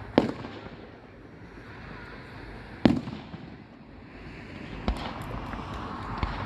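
Aerial fireworks going off: three loud sharp booms, near the start, about three seconds in and about five seconds in, and a smaller bang near the end, with a steady hiss between.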